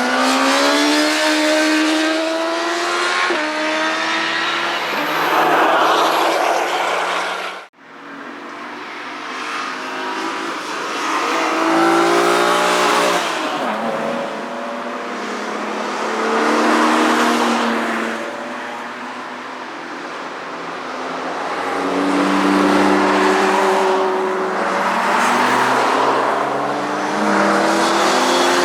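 Motorcycles passing one after another at full throttle, engines climbing in pitch, dropping at each upshift and climbing again. The passes come in swells about every five seconds, with an abrupt cut about a third of the way in.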